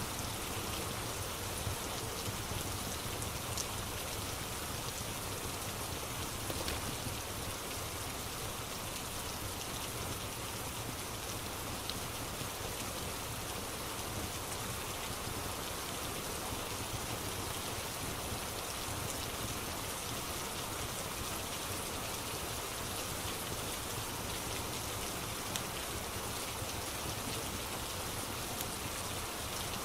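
Steady rain ambience, an even hiss of falling rain, with a few scattered small crackles like a wood fire's.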